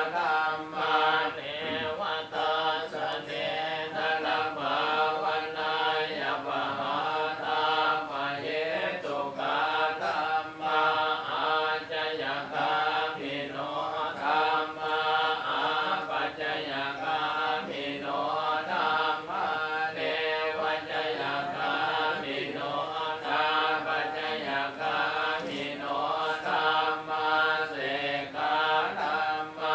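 Buddhist Pali chanting: voices reciting verses in a steady, rhythmic monotone chant.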